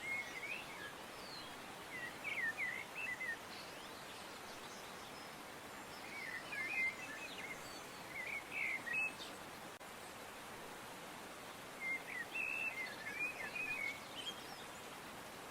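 Birds singing in short clusters of quick chirps, a few seconds apart, over a steady background hiss.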